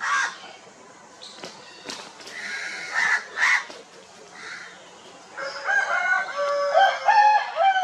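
Chickens calling, with a few short clucks and squawks, then a rooster crowing in one long call with stepped pitch from about five seconds in.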